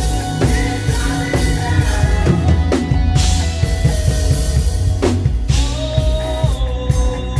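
Live praise band playing, the drum kit driving a steady beat of bass drum and snare hits. A wavering sung melody line comes in over the band about five seconds in.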